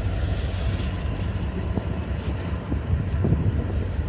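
Slow-moving coal train rolling past: a steady low rumble with a few faint knocks.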